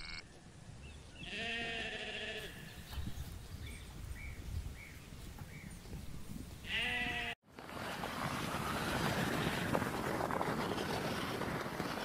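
Sheep bleating twice with a quavering call, about a second in and again just past the middle, with faint short chirps between. The sound cuts off abruptly after the second bleat, and a steady rush of wind noise on the microphone follows.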